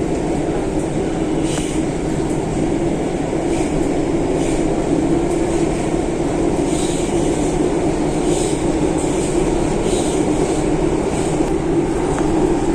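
Metro train running, a steady rumble heard from inside the carriage, with faint short hisses now and then.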